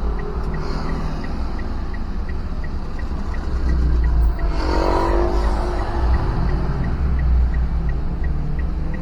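Road traffic heard from a moving vehicle: a steady low rumble with a faint ticking about three times a second. About four seconds in, a louder vehicle passes with its pitch falling.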